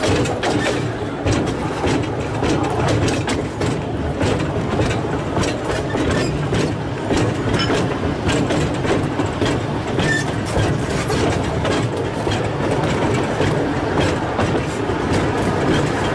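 Narrow-gauge train running along the track, heard from aboard: a steady rumble with frequent rattling clicks of wheels over the rails.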